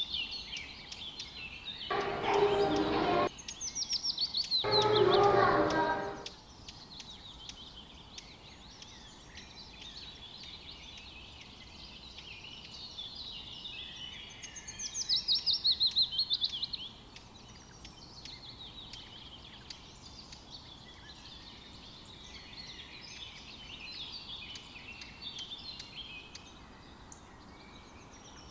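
Songbirds singing in quick falling trills that come back every ten seconds or so over a steady background hiss. Two louder, fuller bursts of another sound come near the start, about two and five seconds in.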